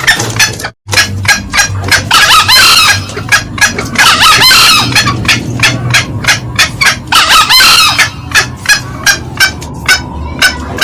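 Green junglefowl calling: a quick run of short cackling notes, about three a second, broken by three longer, loud crows from a cock about two, four and seven seconds in. The sound drops out briefly just under a second in.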